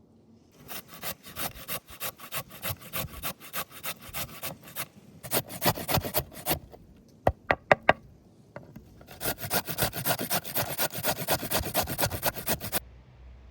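Rhythmic rasping strokes against wood, about three or four a second. They come in three runs, with a few sharp clicks between the second and third.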